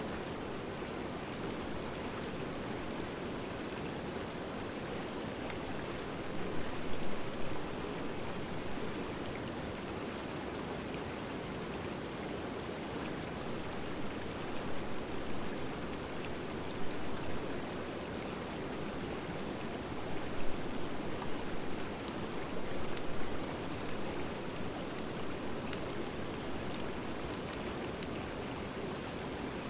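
Wood fire of driftwood and hardwood burning, with a steady rushing hiss underneath. Sharp crackles and pops come now and then, growing more frequent in the second half.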